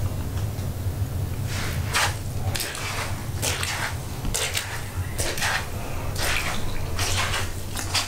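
Water splashing and sloshing in short swishes about once a second on a flooded floor, over a steady low hum.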